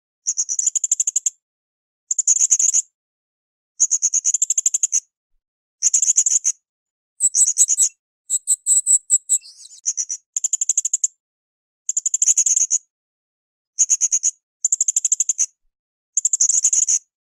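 Blue-crowned hanging parrot (srindit) giving high, rapid buzzing trills about a second long, repeated roughly every two seconds. Near the middle it gives a few higher, choppier calls with faint clicks.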